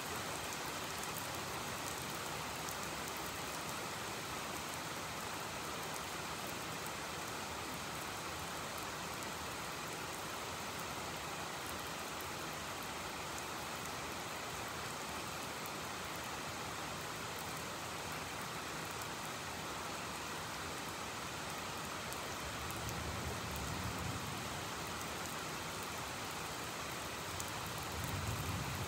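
Heavy rain falling steadily, a constant even hiss. Twice near the end a low rumble swells briefly underneath it.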